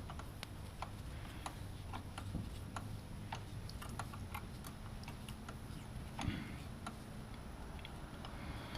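Light, irregular clicks and taps of small parts and tools being handled, a few every second, with a slightly louder knock about six seconds in.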